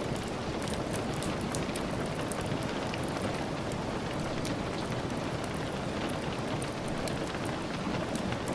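Steady rain falling, with many small sharp ticks scattered throughout.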